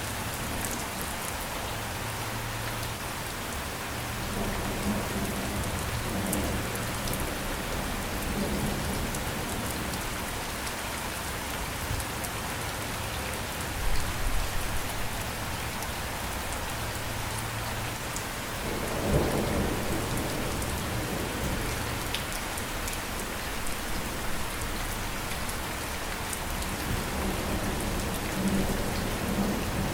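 Steady heavy rain hissing, with low rolling rumbles of thunder underneath; the loudest come as a low thud about halfway in and a broader swell a few seconds later.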